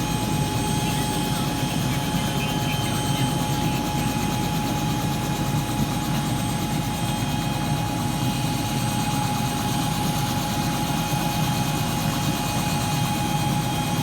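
Helicopter running steadily close by, its rotor noise heavy in the low range with a steady high whine on top.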